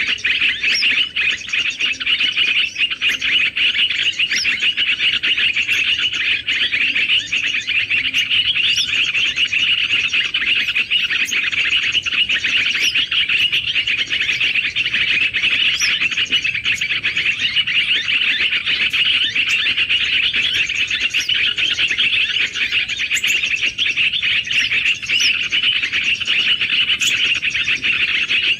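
Many small birds chirping and chattering together in a dense, unbroken mass of high calls, with sharper single notes standing out over it.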